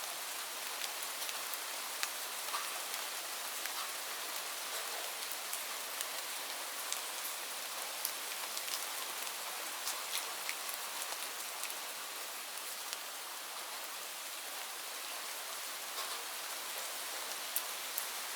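Steady rain falling: a continuous even hiss with scattered sharp ticks of individual drops striking close by.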